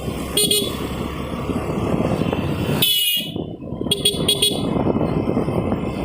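Vehicle horns honking in short toots: one about half a second in, one about three seconds in, and two or three quick ones a second later. They sound over the steady wind and road noise of a moving scooter.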